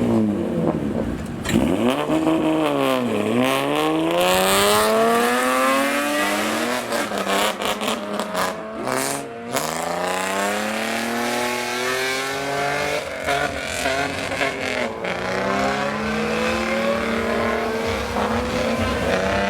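Modified car engine being free-revved through a loud exhaust, its pitch climbing and falling in long sweeps several times.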